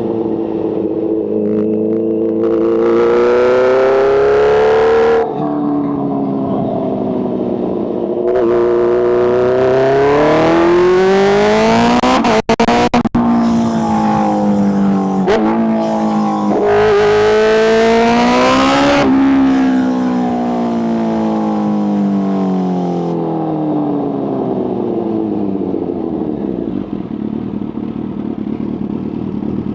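Kawasaki H2's supercharged inline-four engine under hard acceleration several times, the engine note rising quickly with a bright rushing edge, then falling away slowly as the throttle closes and it coasts down. The sound cuts out briefly a few times about twelve seconds in.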